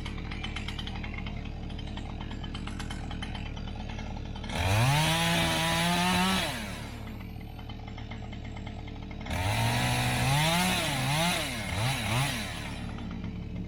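Two-stroke chainsaw idling, then twice opened up to full throttle: the first time it climbs and holds high revs for about two seconds, the second time it climbs and is blipped up and down several times before dropping back to idle.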